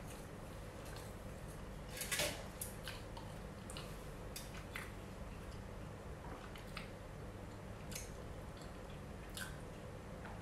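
Quiet chewing of a soft, sticky strawberry mochi dango (sweet pounded rice cake), with scattered small mouth clicks and a slightly louder click about two seconds in.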